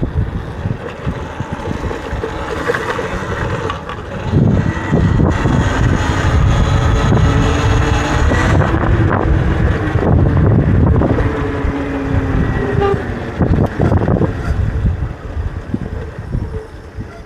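Wind buffeting the microphone while riding a Talaria electric dirt bike, with a faint whine from the bike's motor and drivetrain. It gets louder about four seconds in as the bike picks up speed and eases off near the end.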